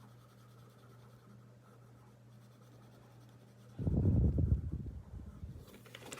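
Coloured pencil rubbing quickly back and forth on paper, colouring in an area. It starts about four seconds in, after a stretch of faint steady hum, and eases off a second or so later into lighter strokes.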